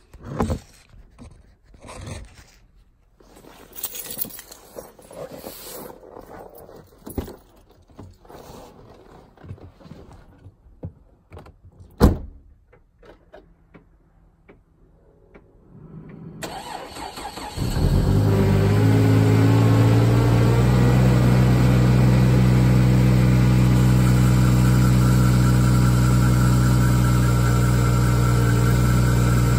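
Scattered clicks and handling noises with one sharp knock, then a 243,000-mile GMC Envoy's engine cranks briefly on a cold start in sub-zero cold and catches about seventeen seconds in. Its pitch rises over the first couple of seconds, then it runs at a steady idle; the owner says it sounds terrible.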